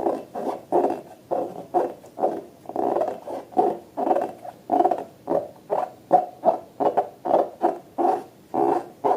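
Slime being squeezed and worked by hand, a quick series of short, pitched squelches at about three a second.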